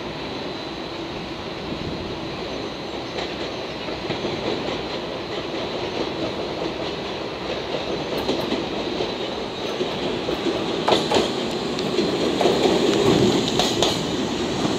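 Slow train of a KuMoYa 145 rail car and three 115-series electric cars rolling in, wheels clicking over points and rail joints, growing louder as it draws near and passes close.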